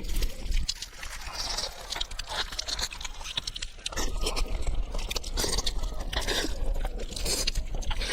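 A person eating close to the microphone: chewing and crunching food with many small, irregular wet clicks and scrapes.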